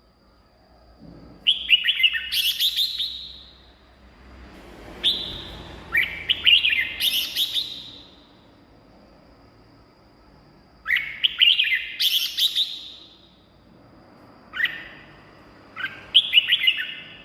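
Red-whiskered bulbul singing: four short song phrases, each a quick run of whistled notes, with gaps of one to three seconds between them.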